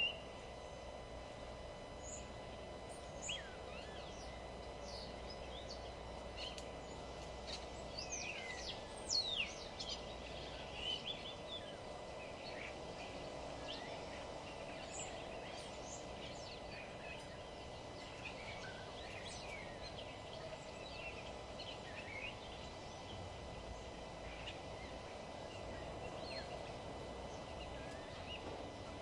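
Several birds chirping and calling in short, quick notes throughout, busiest and loudest about eight to eleven seconds in, over a steady low background hum.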